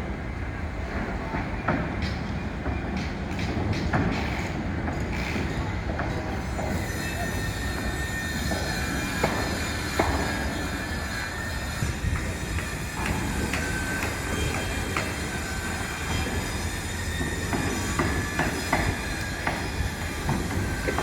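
A train passing, its wheels squealing on the rails as a thin high tone that sets in about seven seconds in and slowly falls, over a steady rumble with scattered knocks.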